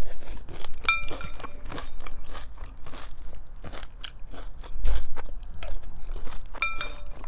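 Close-up crunching and chewing of breakfast cereal in the mouth, in many irregular crunches. There are two short ringing clinks, about a second in and near the end.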